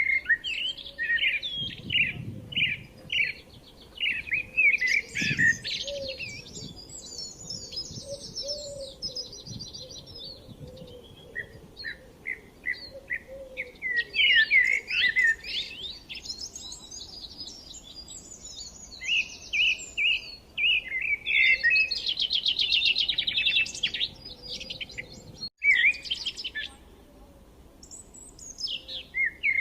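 Birds singing and chirping: a steady stream of quick, varied whistled chirps and trills, including a fast rattling trill past the middle, with a momentary break in the sound late on.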